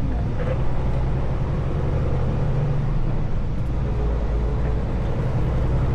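Semi truck's engine running with a steady low rumble.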